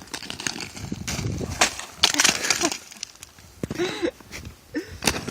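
Freezing-rain ice crust cracking and crunching as it is broken up, with several sharp irregular cracks.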